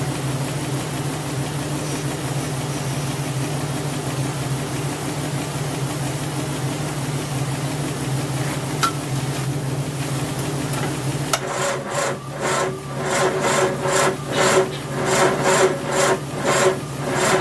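A Jeep engine idles steadily. About eleven seconds in, a Triumph Spitfire's four-cylinder engine begins cranking over slowly on the starter, about two strokes a second, without firing: it is too short of battery power, being jumped through cables.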